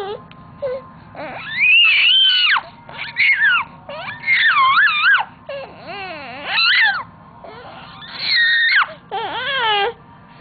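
A 4- to 5-month-old baby squealing and cooing in about six high-pitched bursts whose pitch swoops up and down, typical of an infant's vocal play; the uploader calls it her imitating a train.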